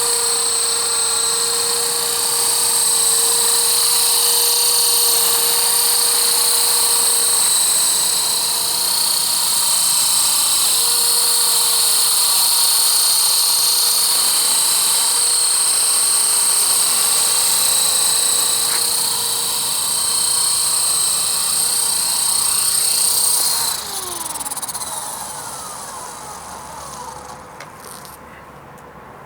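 E-Flite Blade CP Pro electric RC helicopter in flight, its motor and rotor giving a steady high whine. About three-quarters of the way through the power cuts, and the whine falls away in pitch and loudness as the rotor spools down.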